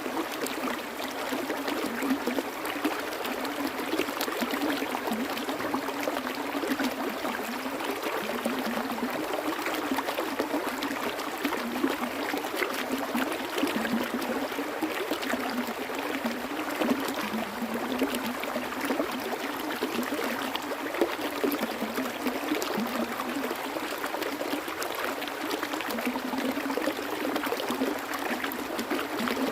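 Flowing stream water running steadily, a continuous rushing and trickling sound.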